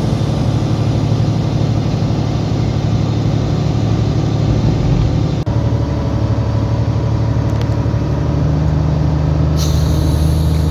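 Semi truck's diesel engine running steadily, its note changing about halfway through after a brief dip. A short hiss comes near the end.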